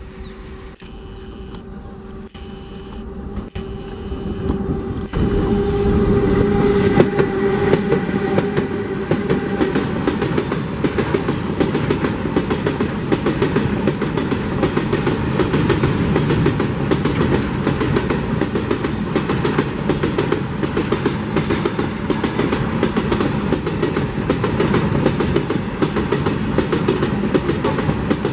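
Electric freight train passing close by. A WAG-12B electric locomotive approaches with a steady hum and goes by about five seconds in. After it, a long line of BOXN open freight wagons rolls past with a continuous dense rattle of wheels on the track.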